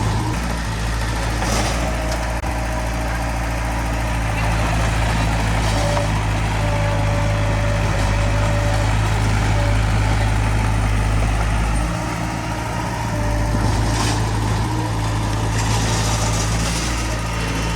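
A D20P bulldozer's diesel engine running steadily, with a deep constant drone that dips briefly about twelve seconds in.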